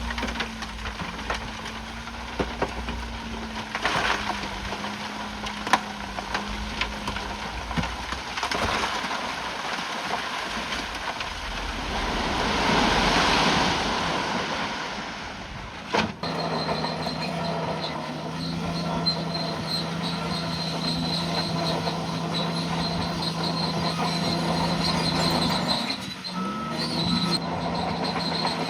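Bulldozer's diesel engine running steadily under work, with a sudden cut about halfway through to a lower, steady engine note.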